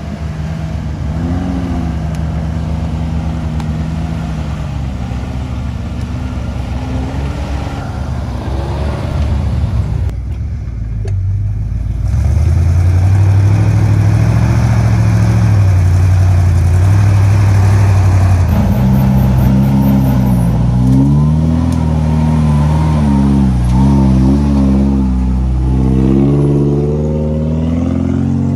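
An off-road 4x4's engine working under throttle, its pitch rising and falling with repeated revving. It gets louder about twelve seconds in, and in the last third the revs swing quickly up and down several times.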